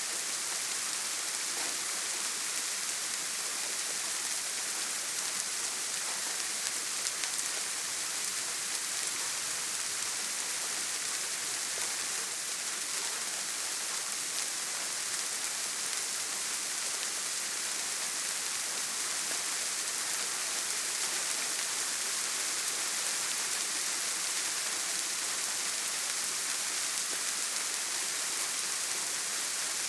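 Steady rain on a tin roof, an even hiss that holds level, with no thunder.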